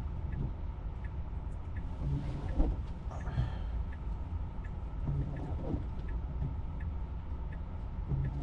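Cabin noise of a Tesla stopped in a snowstorm: a steady fan hiss from the defrost, with the windshield wipers sweeping about every three seconds. Faint regular ticks run underneath.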